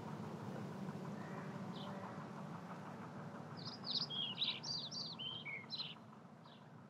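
A bird singing: a quick run of short, high chirps a little past halfway, with a few single chirps before and after. Under it is a faint, steady low hum that slowly fades.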